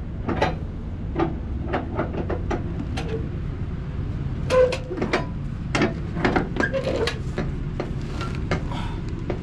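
Irregular sharp clanks and knocks, one to three a second, over a steady low engine rumble.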